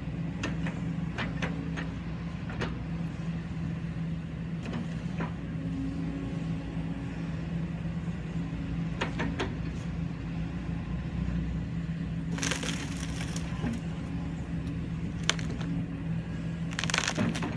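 Kobelco SK140-8 excavator running steadily while wood cracks and splinters as a tree is pushed over, with sharp snaps scattered throughout. Two longer, louder bursts of splintering and crashing come about two-thirds of the way through and near the end.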